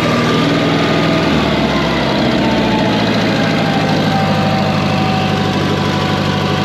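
Air-cooled Wisconsin 30 hp engine of a Massey Ferguson 771 skid steer running steadily at idle, its pitch settling slightly lower a couple of seconds in. It may be missing, which the owner is unsure of.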